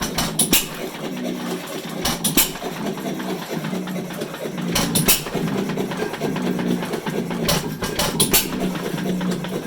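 Domestic 2 hp hit-and-miss engine driving a water pump, firing in short clusters of sharp strokes every two to three seconds and coasting between them with a steady rhythmic clatter.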